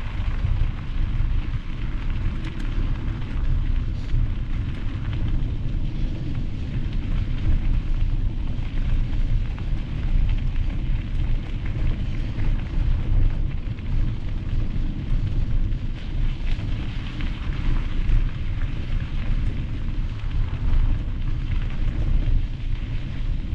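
Steady, loud rumble of wind buffeting the microphone on a moving mountain bike, with a hiss of tyres rolling over gravel.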